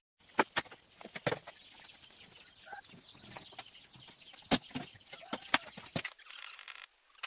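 Irregular sharp knocks and taps of wood being worked with hand tools, the loudest two strikes about halfway through and a second later.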